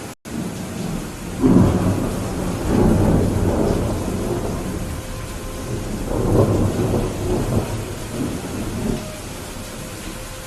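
Steady heavy rain with rolling thunder that rumbles in about a second and a half in and swells and fades in waves for several seconds. The sound drops out for an instant right at the start.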